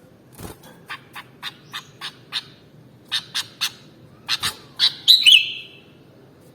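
Sooty-headed bulbul (kutilang) calling: a run of about a dozen short, sharp notes, then a louder warbled phrase a little after five seconds in.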